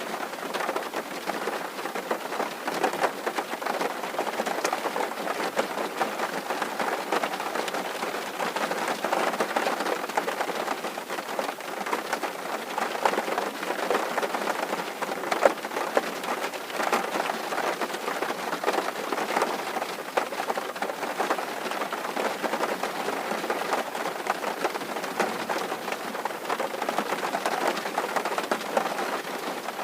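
Steady rain on a tin roof: a dense, even patter of countless separate drops.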